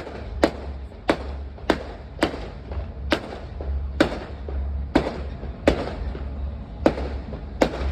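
Fireworks display bursting: a run of about ten sharp bangs, one every half second to a second, over a steady low rumble.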